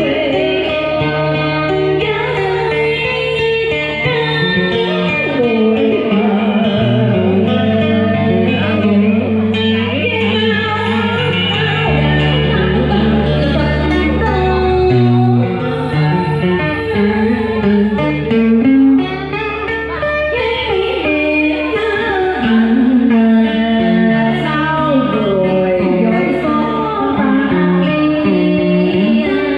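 Vietnamese cải lương singing accompanied by guitar: a voice with wavering, bending notes over plucked guitar lines and long held low notes.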